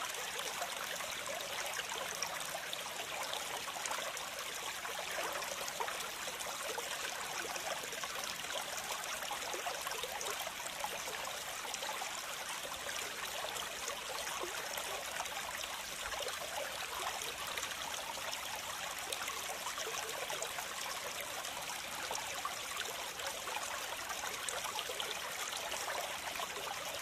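Water gushing out of a concrete dam's spillway outlet: a steady, unbroken rushing of white water.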